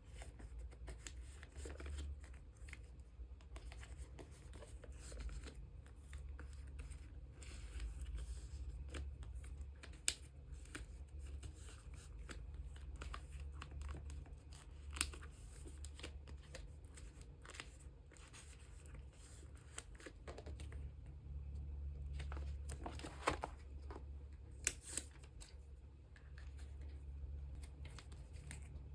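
Plastic card sleeves rustling and scraping as photocards are slid into them and handled, with a few sharp taps. A steady low hum sits underneath.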